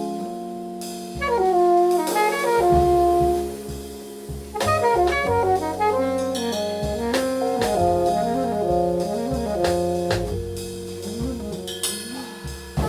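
Jazz group playing, with alto saxophone, keyboard, double bass and drum kit; quick descending runs of notes come about a second in and again near five seconds.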